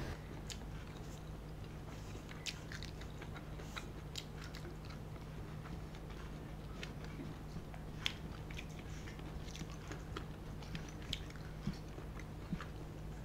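Close-miked chewing of food that includes a carrot stick, with many soft, irregular mouth clicks and small crunches. A low steady hum sits underneath.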